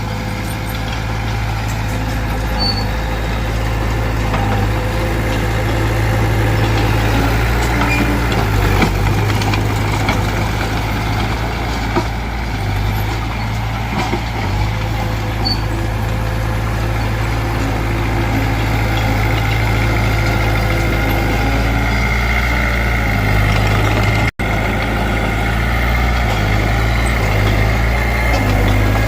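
Diesel engines of a Mitsubishi BD2F bulldozer and dump trucks running steadily under work, a continuous low drone, broken by a momentary dropout about 24 seconds in.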